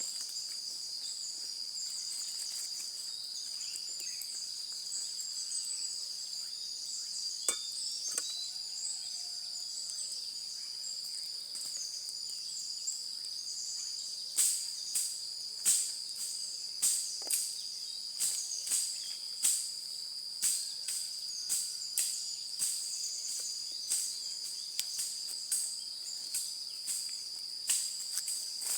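A steady, high-pitched insect chorus of crickets drones throughout. From about halfway through, a regular run of sharp clicks or knocks comes in, roughly one every half to three-quarters of a second.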